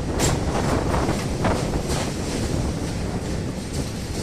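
Train running across a steel truss bridge, heard from an open carriage door: a steady rumble under wind buffeting the microphone, with a few brief sharp swishes.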